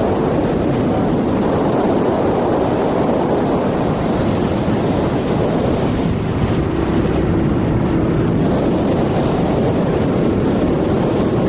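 Wind buffeting the microphone on a moving motorcycle, a steady loud rush with the motorcycle's engine running underneath.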